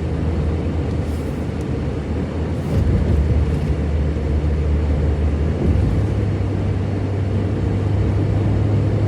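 Engine and road noise of a vehicle driving at speed, heard from inside: a steady low hum whose pitch shifts about three seconds in and again near six seconds.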